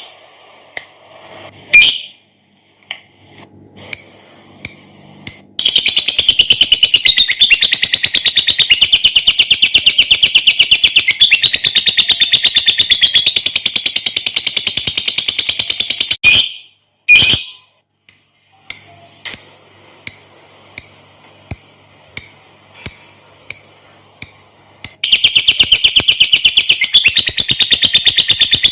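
Lovebird's long 'ngekek' chatter: a very fast, high-pitched chattering trill held for about ten seconds starting about five seconds in, and again near the end. In between come separate short chirps at an even pace.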